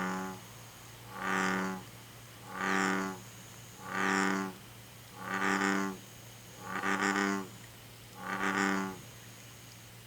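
American bullfrog calling: a series of seven low, bull-like notes, each under a second long, about a second and a half apart.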